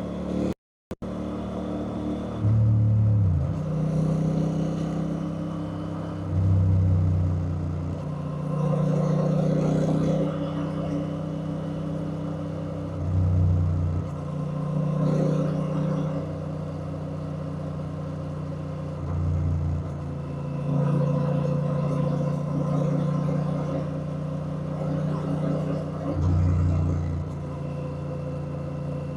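Honda Rebel 1100's parallel-twin engine running at a steady pitch while riding, its sound swelling in loudness several times. There is a brief total dropout of sound just under a second in.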